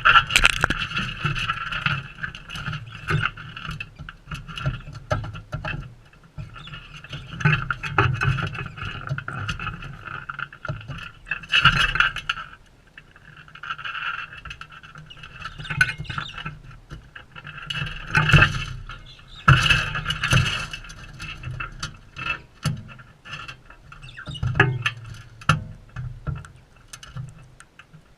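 Galahs calling: harsh, screechy calls in repeated stretches of a second or more, with loud peaks about 12, 18 and 20 seconds in and scratchy clicks throughout.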